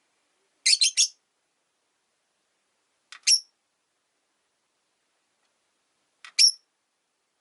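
Rosy-faced lovebirds chirping: three quick, sharp, high chirps about a second in, then single chirps near the middle and near the end.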